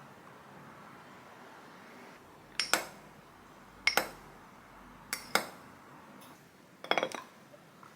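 Tableware clinking: four short, sharp clinks of utensils against dishes, about a second or more apart, the last one a quick double clink.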